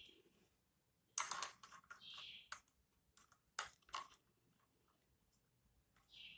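Handling noises: a run of sharp clicks and short scrapes over a couple of seconds, with a brief hiss among them.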